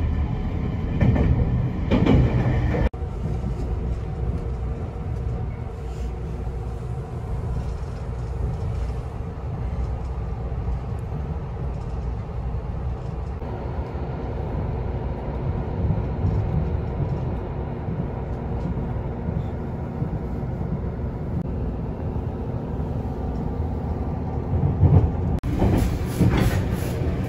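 Running noise of an electric train heard from inside the car, a former JR East 253 series Narita Express unit: a steady low rumble of wheels on rail with a steady hum. The sound changes abruptly about three seconds in and again near the end, where it gets louder.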